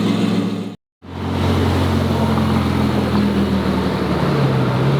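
Sports car engine idling steadily, cut off abruptly just under a second in, then another stretch of steady idle with a slight change in pitch near the end.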